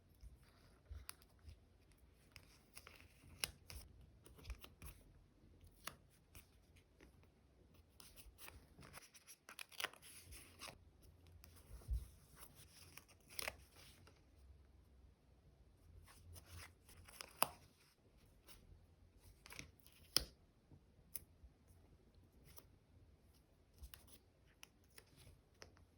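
Quiet sounds of stickers and their plastic sleeves being handled for diary decorating: soft peeling and rustling broken by scattered sharp clicks and taps, the loudest a few single clicks past the middle.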